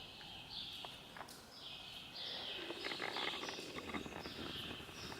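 A bird calling over and over, each call a short downward-sliding chirp, about one and a half calls a second. A few light clicks come around three seconds in.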